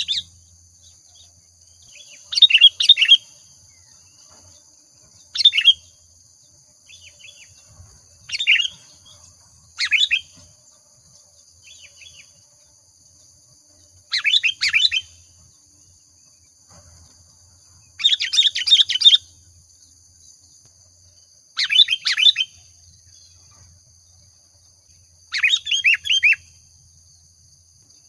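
Sooty-headed bulbul (kutilang) singing short, bright, bubbling phrases, eight in all, every three or four seconds, over a faint steady high-pitched hum.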